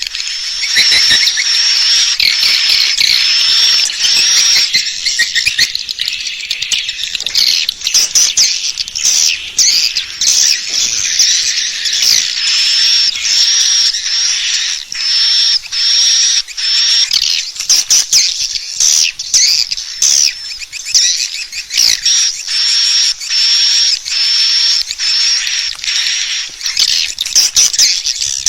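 Swiftlet calls used as a lure sound to draw swiftlets into a nesting house: a dense, unbroken run of short, high chirps and twitters repeating rapidly throughout.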